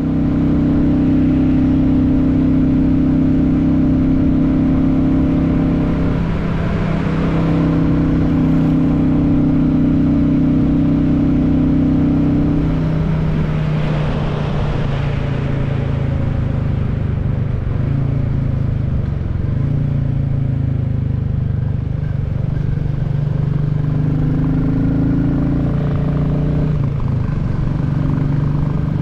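Royal Enfield Classic 350 single-cylinder engine running under way on the road, its steady note shifting a few times as the throttle changes.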